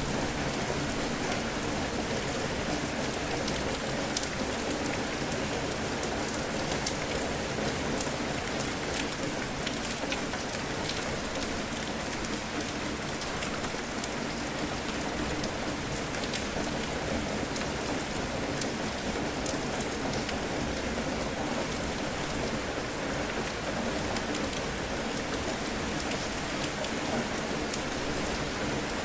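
Steady rain falling on a surface, with many small drop ticks scattered through it.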